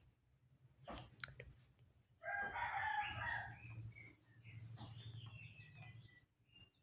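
A bird calling: a short chirp about a second in, then a loud call lasting about a second and a half from about two seconds in, trailing off into thinner chirps.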